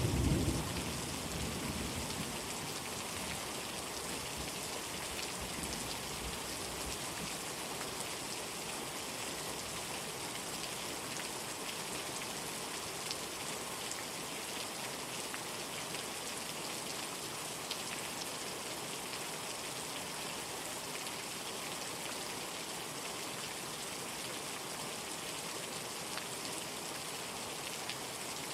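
Steady rain falling. A low rumble of thunder is loudest at the very start and dies away over the first couple of seconds.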